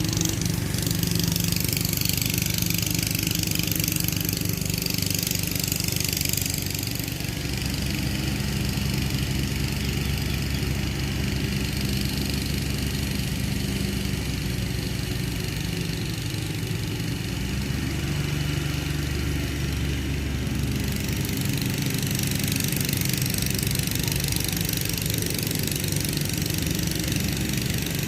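Kubota tractor's diesel engine running steadily, its pitch shifting a few times, with a hiss over it.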